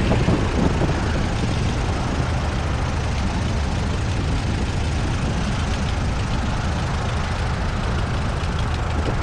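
Aeronca 7AC Champ's engine droning steadily in the cockpit, with airflow noise over the airframe, during the landing flare and touchdown.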